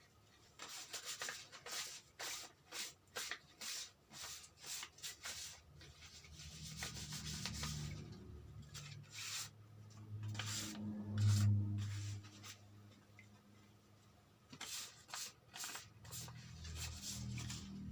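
Repeated hand rubbing strokes, about two a second, against a Yamaha Mio M3 motorcycle cylinder block as its bore is wiped and polished by hand. The strokes pause in the middle while a low hum rises and fades, then resume near the end.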